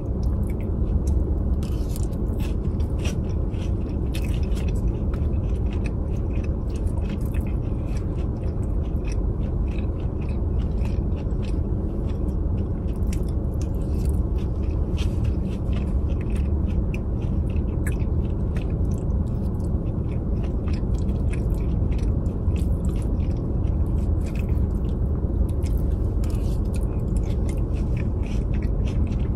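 Close-miked chewing and biting of a Chipotle bowl with crisp lettuce: many small crunches and wet mouth clicks, over a steady low rumble.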